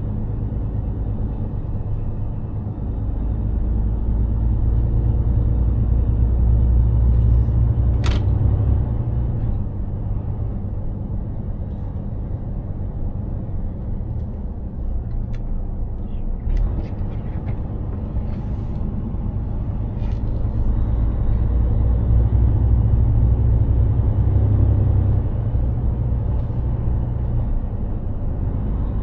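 Mercedes-Benz Actros 2763 truck's inline-six diesel engine and road noise while driving: a steady low drone that swells twice, rising as the truck pulls harder. There is a sharp click about eight seconds in and a few fainter clicks later on.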